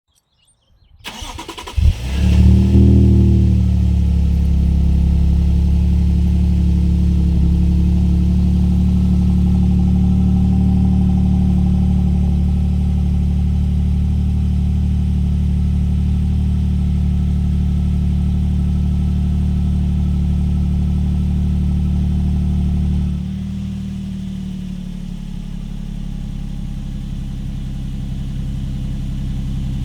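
A 2022 Toyota Tundra's twin-turbo V6 cold-starts through an Atlantic Built slip-on exhaust. It cranks for about a second, fires and flares up about two seconds in, then settles into a steady high cold-start idle. After about twenty seconds the idle drops to a lower, quieter note.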